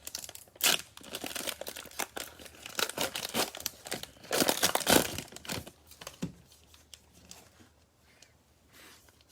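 Cellophane wrappers of Panini Mosaic football card cello packs being torn open and crinkled, in irregular crackling bursts over roughly the first six seconds.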